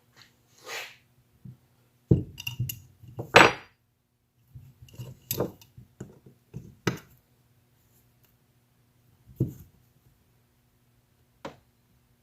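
Hand tools and small metal parts clinking and knocking as work is done on a lawn tractor: a scattering of separate taps and clinks, loudest in a cluster in the first few seconds, over a faint steady hum.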